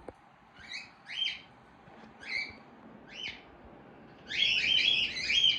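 Pet birds chirping: a few single short chirps spaced about a second apart, then a rapid run of chirps near the end.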